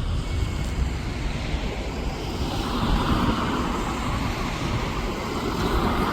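Jet airliner engine noise that swells about halfway through, over a low rumble of wind on the microphone.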